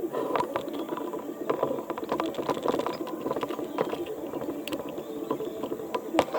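Irregular clicking and clattering of small hard mechanical parts being handled, with sharp clicks scattered unevenly over a continuous rattle.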